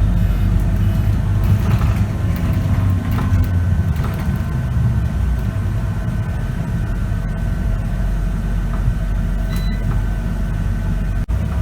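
Scania K94UB bus's diesel engine running, heard from inside the cabin: a steady low rumble with a faint constant whine above it, dropping out for an instant near the end.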